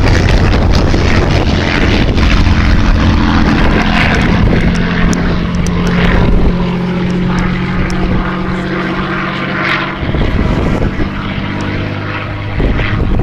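Spitfire's Rolls-Royce Merlin V12 running loudly in a display pass, its engine note steady, then shifting lower about halfway through and again near the end.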